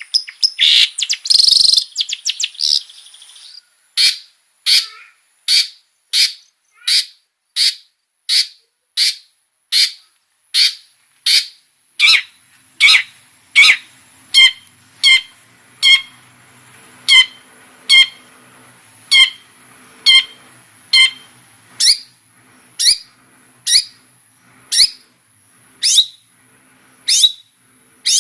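Long-tailed shrike (cendet) singing loudly: a quick jumble of varied notes at the start, then a long run of sharp, repeated, downward-sweeping calls at a steady pace of about one every 0.7 seconds.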